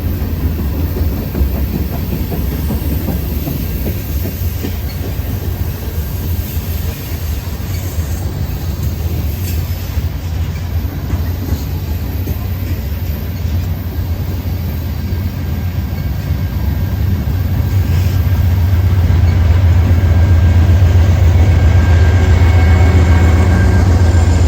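Train passing on the rails with a steady low rumble of wheels and cars, growing louder about eighteen seconds in.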